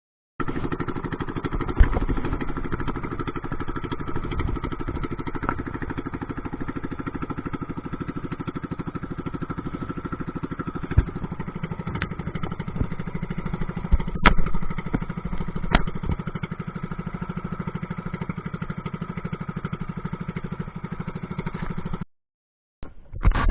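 Small fishing boat's engine running steadily at a constant speed, with a few sharp knocks scattered through it. It starts and cuts off abruptly.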